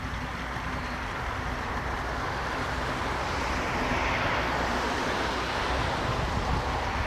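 C58 239 steam locomotive and its train running, a steady rushing noise with no clear whistle, swelling about halfway through.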